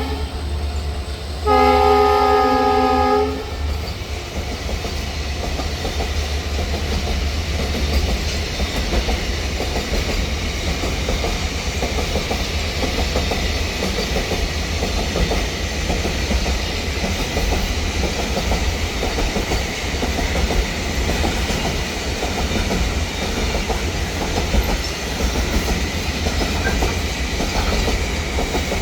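Horn of a WDG-4 diesel-electric locomotive, heard from inside the cab, sounding once for about two seconds a second and a half in. Then the locomotive's EMD two-stroke V16 and the train running steadily along the track, with a constant low drone.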